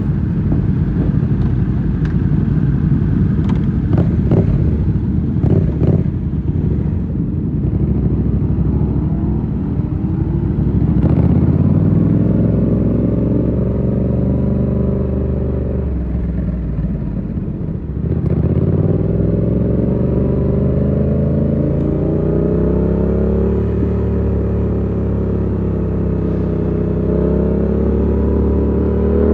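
Yamaha MT-07's parallel-twin engine through an SC Project exhaust while riding: rough and uneven for the first third, then running at steady revs that drop off briefly in the middle, pick up again and climb near the end as it accelerates.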